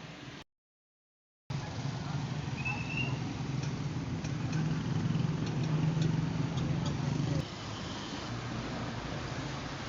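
A vehicle engine running at a steady low hum. The sound cuts out completely for about a second near the start, then the engine note carries on and drops in level about two-thirds of the way through.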